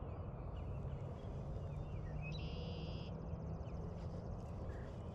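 Outdoor ambience with a steady low rumble and faint bird chirps. About halfway through, one bird gives a buzzy call that runs straight into a fast trill.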